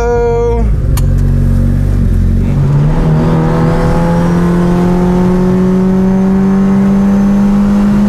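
Mitsubishi Lancer Evolution's turbocharged four-cylinder engine, heard from inside the cabin, pulling under acceleration. From about two and a half seconds in its note rises slowly and steadily.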